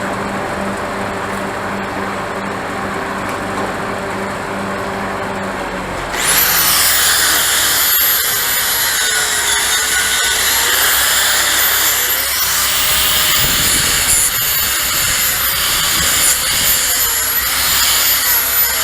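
A steady hum, then about six seconds in an electric angle grinder spins up with a high whine. Its pitch wavers as it is worked against the steel, grinding down weld on a backhoe boom.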